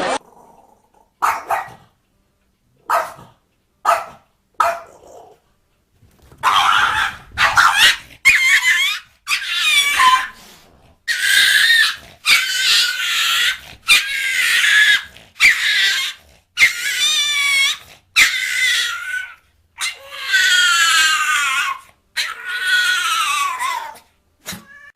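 A dog vocalising: a few short sharp yips, then a long run of about fifteen high, drawn-out whining calls of about a second each, several falling in pitch at the end.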